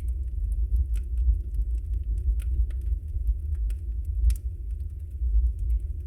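Wood fire burning in a fireplace: a steady low rumble of the flames with frequent sharp crackles and pops from the logs, two of them louder, about two and a half and four seconds in.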